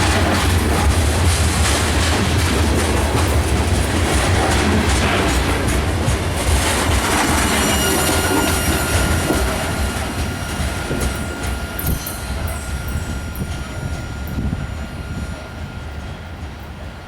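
A train rolling past on the tracks, its heavy rumble fading away over the second half. A thin steady squeal comes in about halfway through, with scattered clicks from the wheels near the end.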